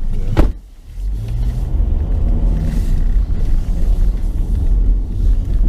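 A single sharp thump, then the steady low rumble of a car driving.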